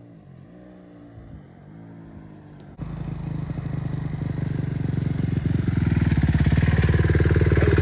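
Kawasaki 250 dirt bike engine revving up and down at a distance. About three seconds in it switches abruptly to running loud and close, growing steadily louder.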